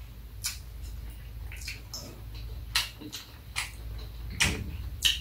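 Chewing and lip-smacking while eating sushi: a run of short, sharp, wet smacks about once a second, over a low steady hum.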